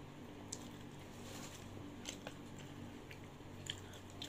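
A person chewing food up close, with a few short wet mouth clicks and smacks scattered through.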